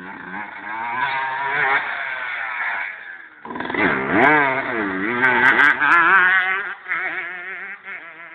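125 cc two-stroke motocross bike engine revving hard, its pitch rising and falling with the throttle. The sound breaks off briefly a little over three seconds in and comes back louder.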